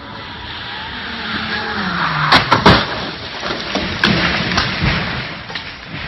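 A car's engine revving with tyre and road noise building up, then a cluster of sharp, loud bangs a little over two seconds in and a couple more knocks later.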